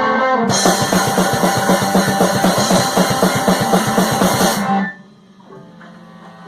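Rock band music with guitar and a drum kit playing fast, even strokes with cymbals. It stops abruptly a little under five seconds in, leaving a quieter held ringing chord that then cuts off.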